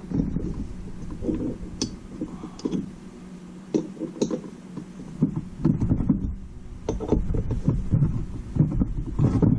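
Irregular knocks, clicks and scraping from tools being handled at a workbench over a steady low hum, with the knocks coming more thickly in the second half.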